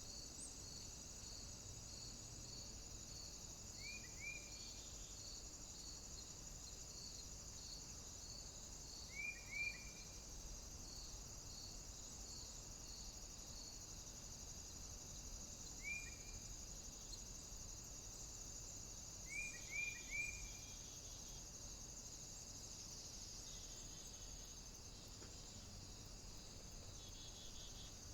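Steady high-pitched drone of cicadas and other insects, with a second insect pulsing about twice a second through the first half. Four times, short sharp chirps come in twos and threes over the drone and are the loudest sounds.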